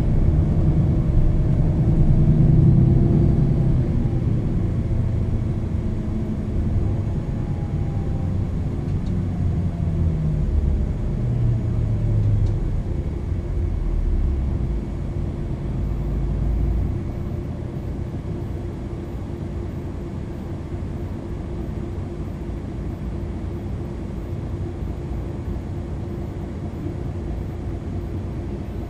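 MAN NL 323 city bus under way, its six-cylinder diesel engine and ZF EcoLife automatic gearbox driving hard, with a whine that glides up and down through the first dozen seconds. After that it eases off to a quieter, steady run.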